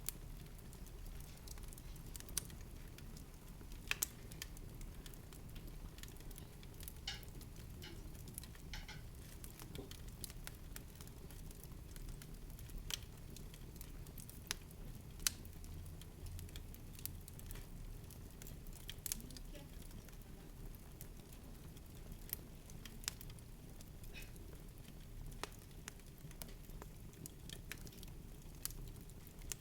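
Scattered soft clicks and crackles at irregular intervals over a steady low rumble.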